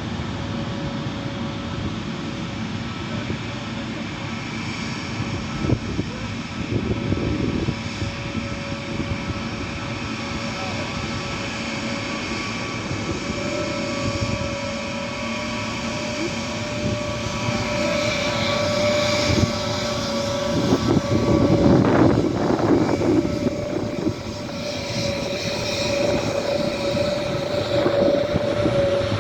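Airbus A321neo's jet engines running with a steady whine, growing louder about two-thirds of the way through.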